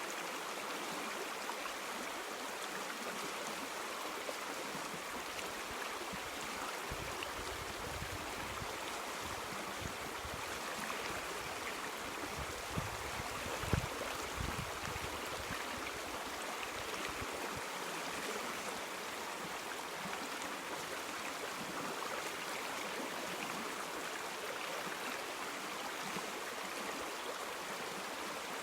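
River water flowing, a steady rush. For several seconds in the middle, low rumbles come through under it, with one brief knock.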